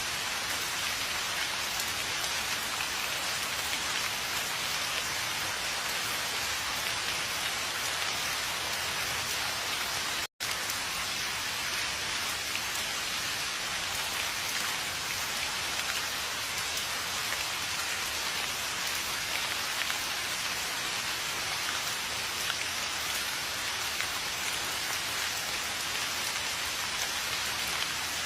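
Steady rain falling, an even hiss of many drops. The sound cuts out for an instant about ten seconds in, then carries on unchanged.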